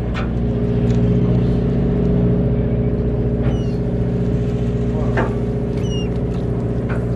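A boat engine running steadily, a low even hum with a few faint high chirps and light knocks over it.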